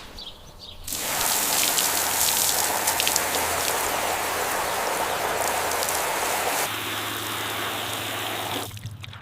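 Steady hiss of falling or spraying water, like rain or a shower. It starts abruptly about a second in, shifts in tone about two-thirds of the way through, and cuts off suddenly near the end.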